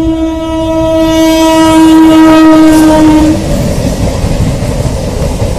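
A Rajdhani Express locomotive's horn sounds one long blast of about three and a half seconds over the steady rumble of the train running on the track. The rumble carries on after the horn stops.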